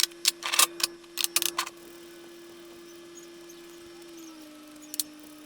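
Metal tools of a ball-joint puller set clinking and clattering as they are packed away: a quick run of sharp clicks in the first couple of seconds, then one more about five seconds in. A steady faint hum runs underneath, dropping slightly in pitch about four seconds in.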